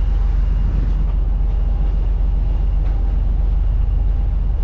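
Steady low drone of a ship's engine running, with a fine even pulse in the rumble and a faint steady whine above it.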